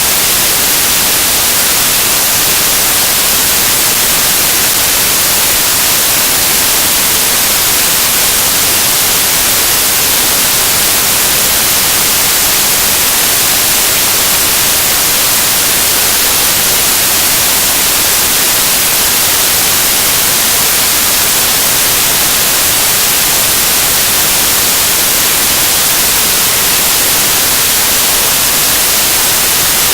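Loud, steady static hiss like white noise, unchanging throughout, with no other sound over it.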